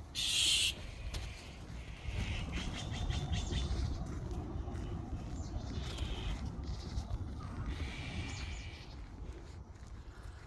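Birds calling in short trills several times over a steady low rumble, with a brief loud hissing burst right at the start.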